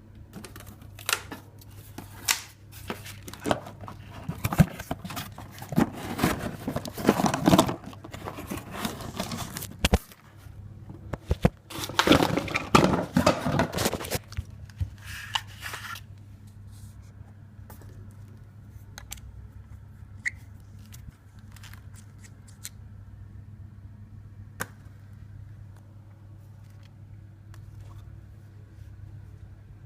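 Irregular rustling, scraping and clicking for about the first sixteen seconds, over a steady low hum. After that only the hum goes on, with occasional sharp clicks.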